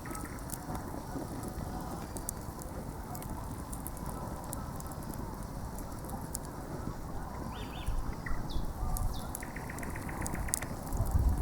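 Wood campfire crackling, with scattered sharp pops over a steady noisy bed.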